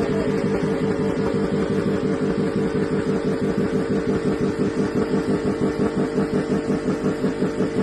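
GM 4.8 L V8 held against its rev limiter, the revs bouncing on the cut in a fast, even pulsing several times a second at a steady high pitch.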